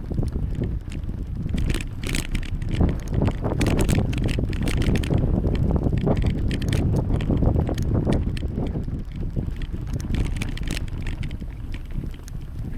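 Wind buffeting the microphone of a camera on a moving bicycle, with frequent light rattles and clicks from the bike over the road surface.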